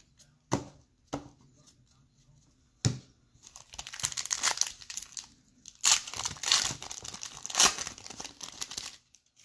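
A few light knocks, then a trading-card pack wrapper being torn open and crinkled for several seconds, in crackly surges.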